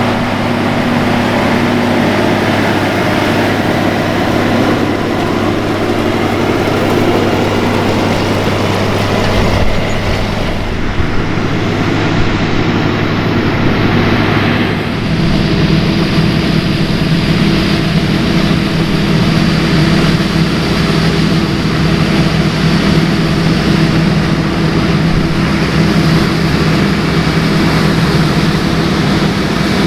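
Large diesel farm machinery running steadily, with a continuous engine drone. About halfway through, the engine note changes to a different, somewhat higher pitch.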